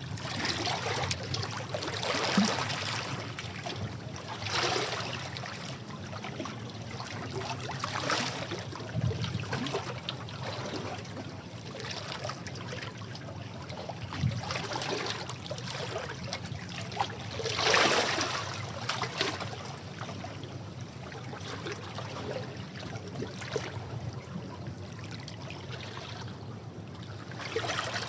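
Sea waves washing against rocks: a continuous rush of water with surges as waves break, the loudest about two-thirds of the way through.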